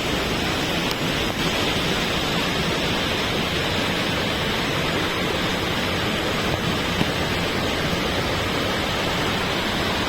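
Large waterfall pouring, a steady, even rush of falling water.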